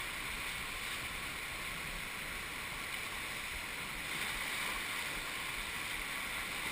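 Steady rush of river water around a raft, an even hiss with no distinct splashes.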